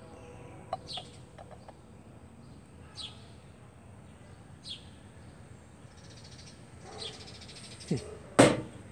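A few short, high bird chirps spaced a second or two apart over a quiet background, with a short loud thump near the end.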